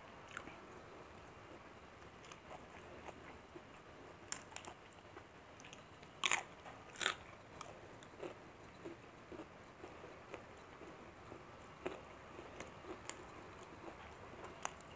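A person chewing and biting a meal of curried chicken liver, gizzard and rice, with scattered short crisp crunches, the two loudest near the middle.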